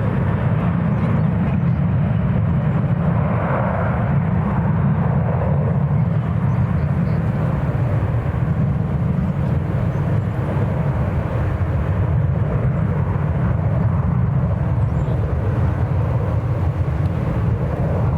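Jet airliner engines heard from the airport perimeter, a steady low rumble that neither builds nor fades.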